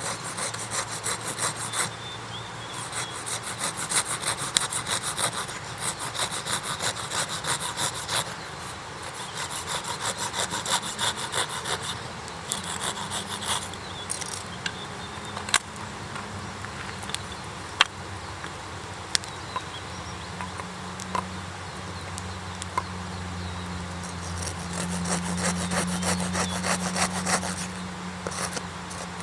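Hand saw cutting wood, likely firewood, in runs of quick back-and-forth strokes, with a few sharp single cracks in the pauses between runs.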